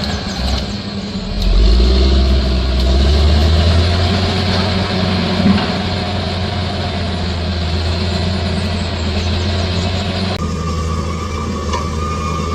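Heavy diesel engine of a bulldozer running steadily under load, with a deep, even hum. The sound grows louder about a second and a half in and changes character abruptly about ten seconds in.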